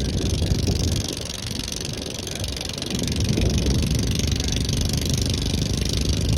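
Engine running steadily with a dense low rumble. It drops in level about a second in and picks back up near three seconds.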